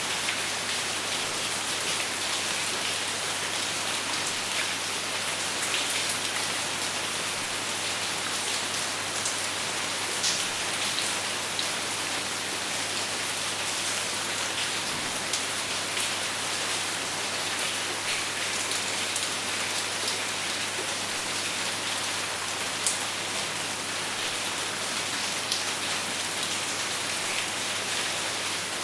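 Steady rain falling on a surface, with no thunder, scattered individual drops ticking sharply over the even hiss.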